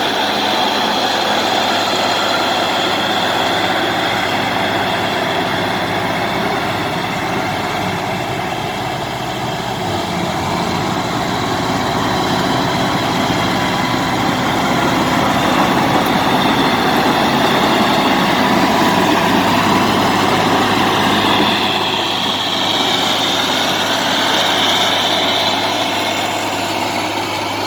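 Bulldozer's diesel engine running steadily while it works, its sound swelling for several seconds past the middle and then easing.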